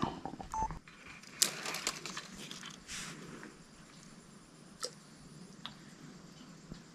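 Faint scattered clicks and soft rustles of a small climbing perch being handled, unhooked and released by hand, over a quiet steady background.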